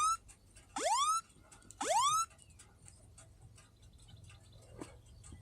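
iPhone Crash Detection emergency alarm: rising whoop tones repeating about once a second, sounding the countdown before the phone calls emergency services. The tones stop about two seconds in, leaving only a few faint clicks.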